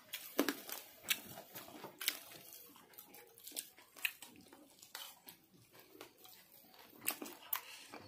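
Chewing and biting on spicy chicken lollipops, with irregular wet mouth clicks and smacks.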